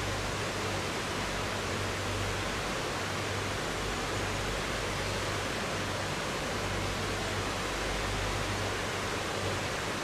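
River water flowing: a steady, even rushing with no change in level.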